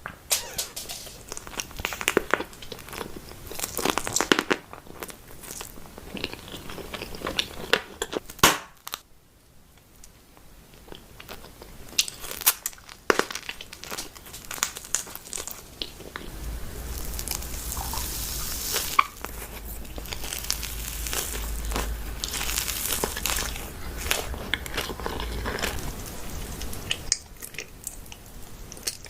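Close-miked mukbang eating sounds: food packaging crinkling and crunchy bites and chewing. Sharp crackles come in the first half, and a steadier stretch with a low rumble follows in the second half.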